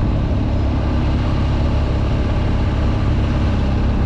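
BMW R nineT's boxer-twin engine running steadily, heard from the rider's seat.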